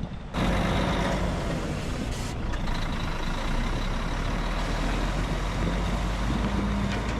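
Heavy truck engine running, a dense, steady rumble that starts abruptly a moment in.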